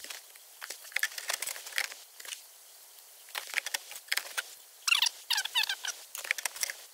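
Wood pellets crackling and popping in the fire of an Ooni Fyra pizza oven, with irregular sharp crackles that are busiest about five seconds in.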